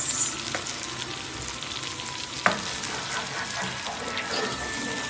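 Onion, tomato and spice base with cream frying steadily in ghee and oil in a pot, with a wooden spoon stirring and knocking against the pot; one sharper knock about two and a half seconds in.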